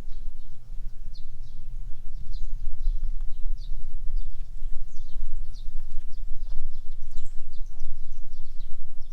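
Birds chirping, many short high calls scattered throughout, over a loud, steady low rumble of wind and handling noise on a camera carried on foot.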